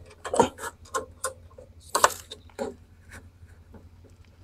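Irregular clicks and knocks of a lawnmower's brake cable being worked onto the handlebar and fitted into place, the loudest about half a second and two seconds in.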